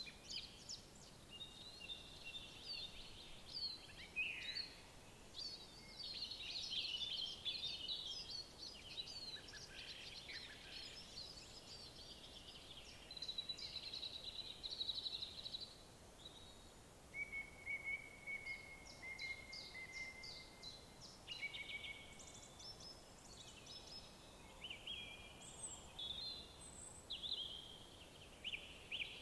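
Several songbirds singing at once in a woodland chorus: overlapping quick chirps, rapid trills and short whistled notes, over a faint steady hiss.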